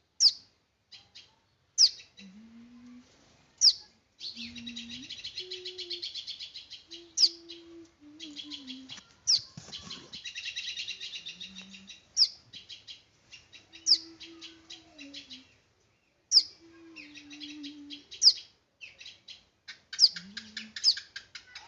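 Small bird chirping: sharp, high, downward-sweeping notes every one to two seconds, with rapid, buzzy chattering trills in between.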